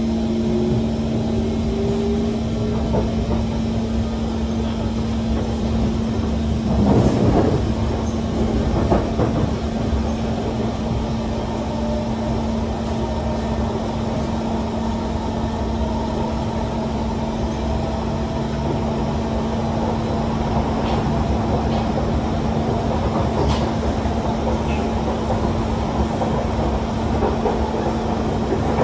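Kawasaki C151 metro train heard from inside a car as it accelerates and runs: a steady hum and rumble of wheels on track, with the traction motor whine rising in pitch in the first few seconds. A loud thump comes about seven seconds in.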